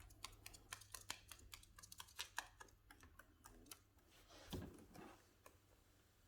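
Faint, quick, irregular clicks of cockatiel beaks pecking and nibbling at a piece of banana, several a second, thinning out after about four seconds, with a soft brief rustle about four and a half seconds in.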